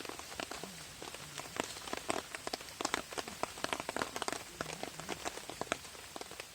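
Rain falling on a camping tarp: many irregular sharp taps of drops hitting the fabric over a steady hiss of rain.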